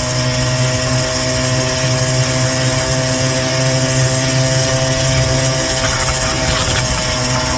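Small gas scooter engine running steadily under way, a constant-pitched drone that holds the same speed throughout.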